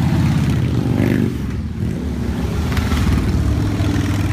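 A stream of motorcycles riding past, their engines running with a dense, steady low rumble that eases slightly about one and a half seconds in and then builds again.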